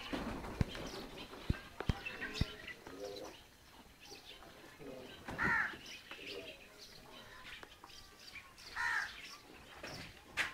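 Birds calling: a few short calls, the two loudest about five and nine seconds in. There are several light clicks in the first couple of seconds.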